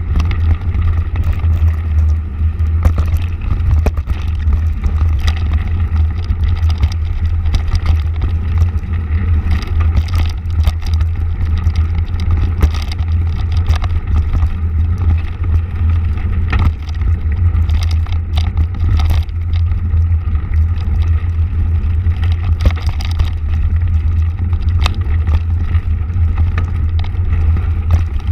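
Motorcycle engine running steadily at cruising speed while riding, with a constant low hum and rushing road noise.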